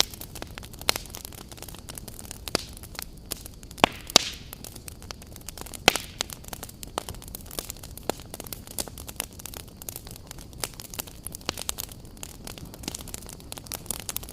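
Wood campfire burning: a steady low rumble of flames with irregular crackles and sharp pops, a few louder snaps among them, and a brief hiss partway through.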